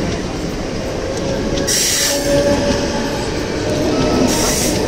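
Mumbai suburban local train (electric multiple unit) running on the rails with a steady rumble, with two brief high-pitched screeches from the wheels, about two seconds in and again near the end.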